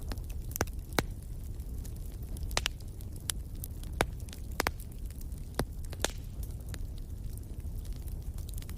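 Wood fire crackling in a fireplace: irregular sharp pops and snaps over a steady low rumble, the loudest pops about one second and four seconds in.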